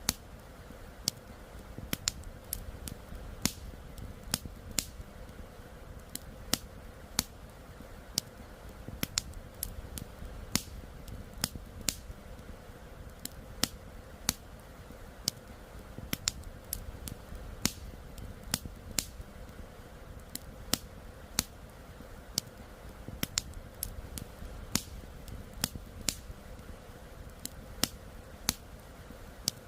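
Wood fire crackling, with sharp irregular pops about twice a second over a steady low rush of flowing river water.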